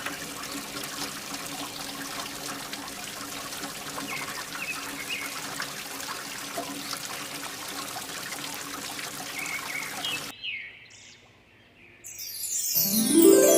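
Water trickling and pouring from a mini water pump's outflow over a steady low hum, with a few short bird chirps. About ten seconds in the sound fades away, and near the end a music jingle with a rising sweep begins.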